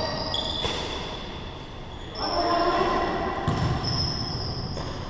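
Basketball game on an indoor court: sneakers squeak in short high chirps and the ball bounces with a thud, while players' voices call out briefly about two seconds in.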